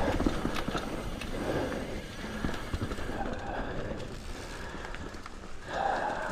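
Mountain bike rolling over a wet dirt trail: a steady rumble of tyres and chassis with occasional clicks, growing gradually quieter.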